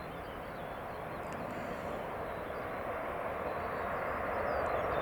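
Jet airliner engines, a steady roar growing steadily louder as the aircraft approaches.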